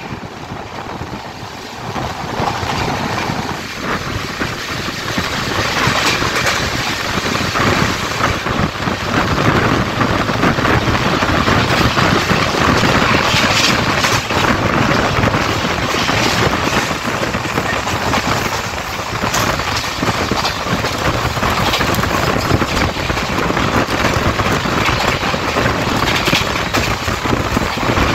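Indian Railways express train running at speed, heard from an open door or window: wheels rumbling and clattering on the rails under a steady rush of wind. It grows louder over the first several seconds, then holds steady.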